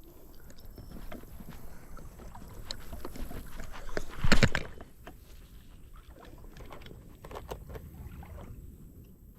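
Shallow creek water sloshing and splashing, with scattered small clicks and one louder splash about four seconds in.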